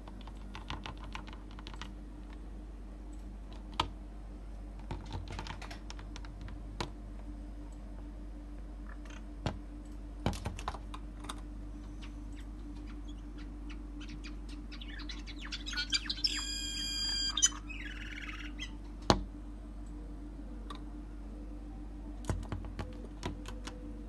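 Scattered sharp taps and clicks, in small clusters, from birds at the window glass and ledge. Roughly two-thirds of the way through, a bird gives one harsh call of about a second and a half.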